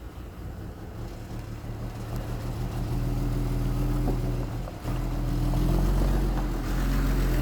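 Heavy diesel engine of earthmoving machinery running hard, swelling louder about two seconds in, dipping briefly, then picking up again.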